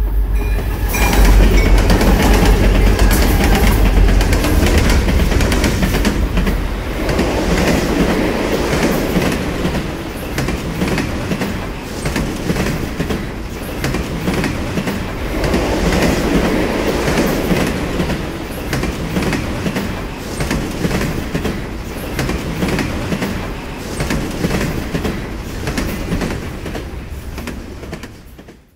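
Recording of a real freight train rolling past: a deep rumble in the first few seconds, then the steady clickety-clack of railcar wheels over rail joints with slow swells, fading out near the end.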